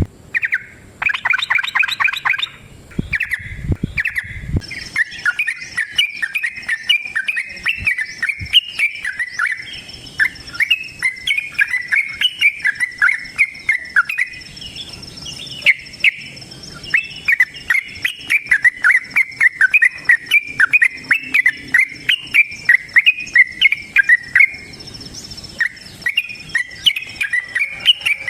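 Yellow-vented bulbul (trucukan) singing a long, fast chattering run of short notes that repeat almost without a break, after a few shorter bursts at the start.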